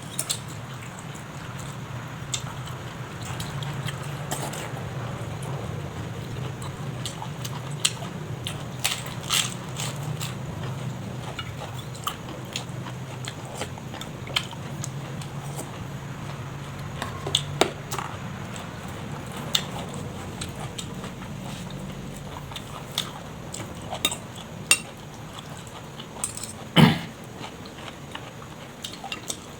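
Person eating close to the microphone: chewing and biting, with scattered sharp clicks and taps, the loudest about 27 seconds in, over a steady low hum.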